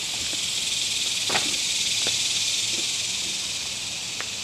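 Steady, high-pitched insect chorus. A faint knock sounds about a second and a half in, and another near the end.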